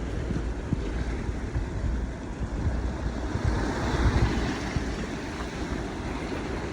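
Wind buffeting the microphone with surf washing on the beach behind it, a steady rumble with a swell in the middle.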